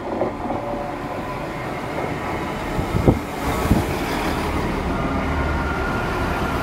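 Great Western diesel multiple unit running past close by at the platform: steady engine and wheel rumble, with two sharp clacks from the wheels on the rails about three and four seconds in, and a thin steady whine from about five seconds in.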